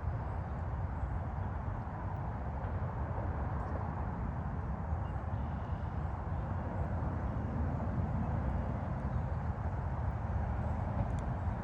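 Steady roar of distant highway traffic.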